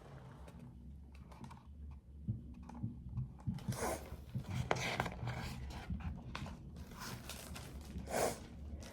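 Several soft paper rustles from a picture book being handled and its page turned, over a low steady room hum.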